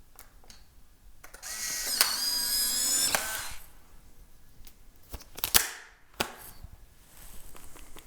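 Polaroid instant camera taking a picture: a click, then its motor whirs for about a second and a half as it pushes out the print. Sharp clicks follow a couple of seconds later.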